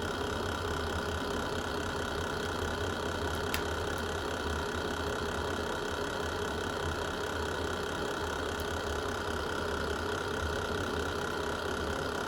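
Wood fire burning in a fireplace: a steady low rumble, with one sharp crackle about three and a half seconds in and a fainter pop near nine seconds.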